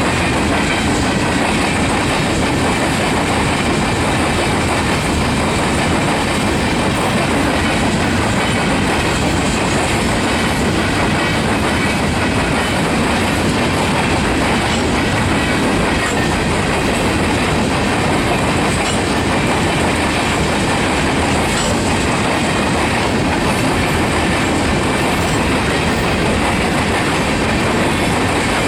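Long freight rock train's loaded cars rolling steadily past, wheels clacking over the rail joints.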